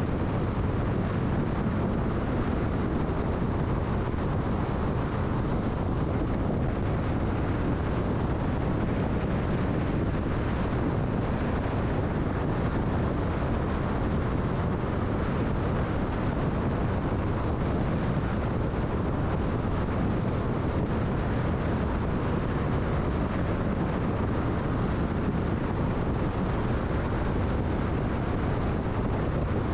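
Steady road noise of a car cruising at freeway speed: an even rumble of tyres and wind with no distinct events.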